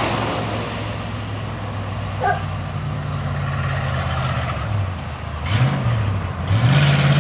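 1959 Cadillac hearse's V8 engine running, its pitch dipping and rising twice past the middle, then growing louder and climbing in pitch under acceleration near the end as it comes up the road.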